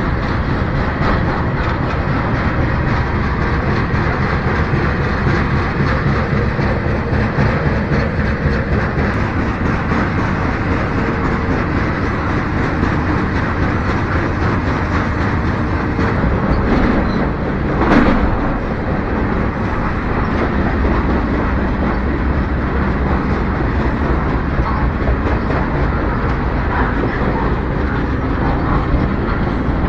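Freight train rolling along the track, heard from aboard a car: a steady rumble and rattle of wheels on rails. About two-thirds of the way through there is one short, louder noise.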